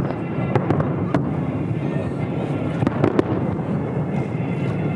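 Fireworks display with shells bursting: a dense, continuous crackle and rumble broken by many sharp bangs at irregular intervals.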